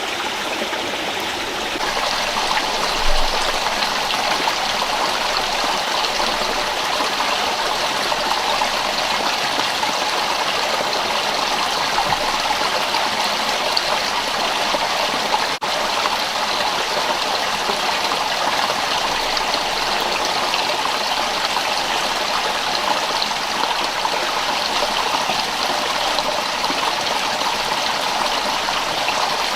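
Rocky rainforest stream rushing steadily over stones, a continuous even water noise.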